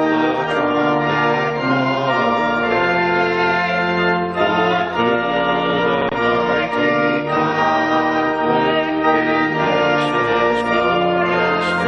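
Church organ playing a hymn in held chords that change every second or two.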